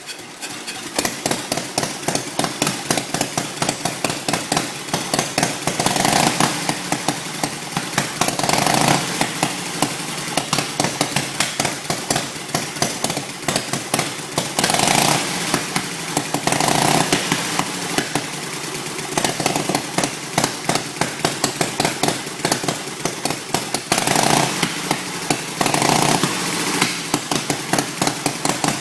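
1913 Thor 1000cc V-twin race motorcycle engine catching and then running with a fast, loud, popping firing beat. The throttle is blipped a handful of times, giving brief revs that often come in pairs a couple of seconds apart.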